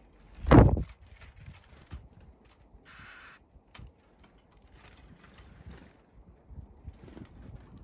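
Small birds at a window bird feeder: a single loud thump about half a second in, as of a bird landing on the feeder, then light, scattered pecking taps and scratches of feet and beaks, with a brief rustle about three seconds in.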